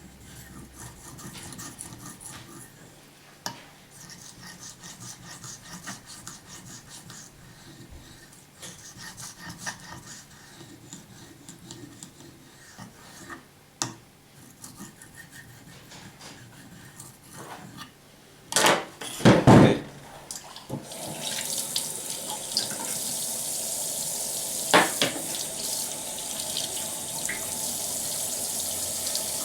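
Faint, irregular scraping of a knife blade stroked on a waterstone, then a couple of loud knocks about 19 seconds in. From about 21 seconds a water tap runs steadily, rinsing during waterstone sharpening.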